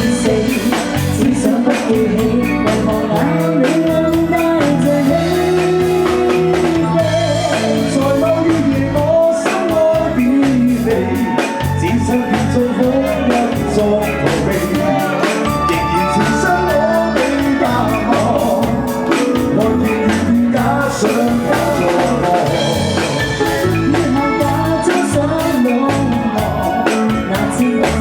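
Band music with a drum kit keeping a steady beat under sustained melodic instruments, loud and continuous.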